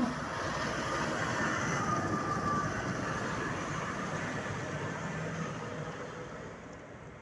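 A vehicle passing by, its noise swelling over the first couple of seconds and then fading away.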